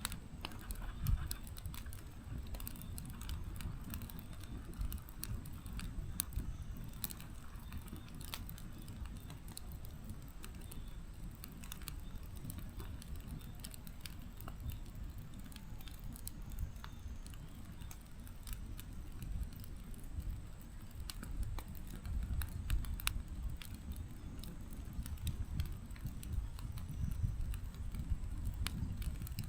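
Firewood burning in a fireplace: a steady low rumble of flames with scattered sharp crackles and pops, a little busier near the end.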